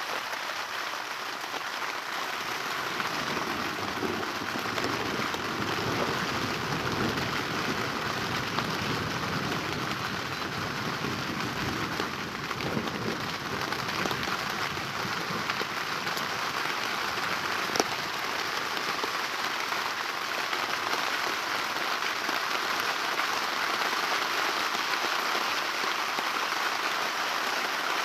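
Steady rain falling, a dense even hiss throughout, with a single sharp click about eighteen seconds in.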